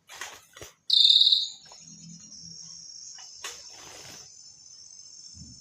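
Leafbird (cucak daun) calls from a bird-lure recording: a loud buzzy trill about a second in, then a steady high-pitched ringing like an insect's, broken by a few short rustling bursts.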